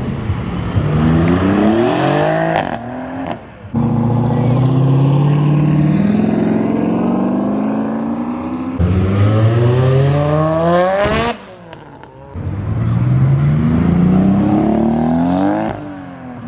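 Car engines revving hard under acceleration. The pitch climbs several times in a row, with sudden breaks in between, about a third of the way in and again past the middle.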